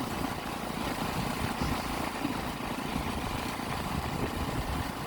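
Motorcycle engine running on the move, a steady rumble mixed with a rushing noise.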